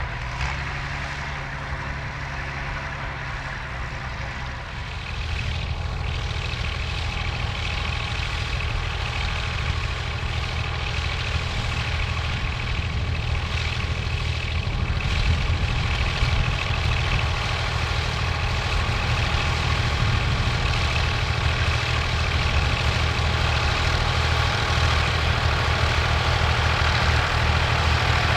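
Vintage tractor engine running steadily. It gets louder about five seconds in and keeps slowly growing louder.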